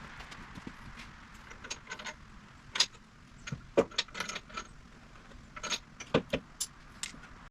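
Light metallic clicks and clinks of hand tools and metal parts being handled, about a dozen scattered irregularly, the loudest near the middle and toward the end.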